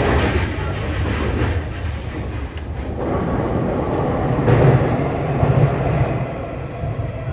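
Tokyu 3020 series electric train running on the rails, heard from inside the car: a steady rumble with wheel clatter, swelling a little louder about four and a half seconds in. A few faint steady tones come in near the end.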